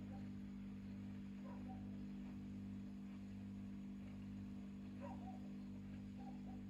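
Whirlpool top-load washing machine running with a steady low hum. A few faint short chirps sound over it, about one and a half seconds in, around five seconds, and again near the end.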